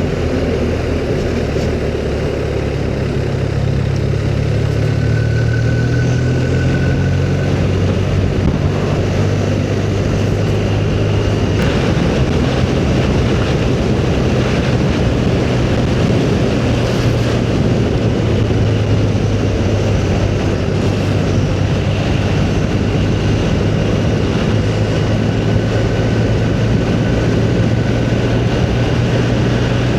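Motorcycle engine running steadily at road speed, with wind and road noise rushing past.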